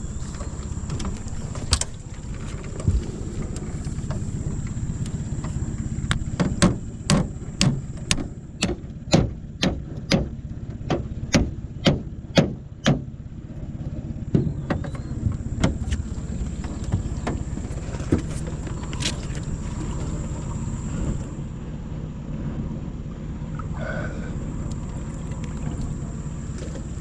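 Boat's outboard motor running steadily. About a quarter of the way in comes a run of about fifteen sharp knocks, roughly two a second, that stops about halfway through.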